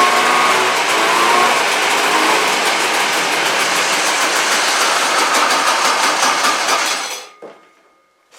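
1972 Sno-Jet snowmobile's Hirth two-stroke engine running with its new exhaust fitted, then shut off, cutting out about seven seconds in.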